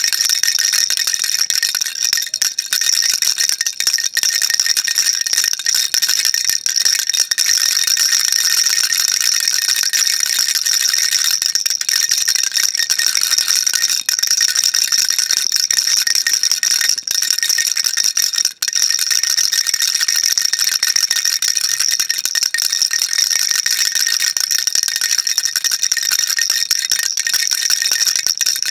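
Baby rattle shaken continuously, a dense, bright, steady rattling with little low end, dropping out for an instant about two-thirds of the way through.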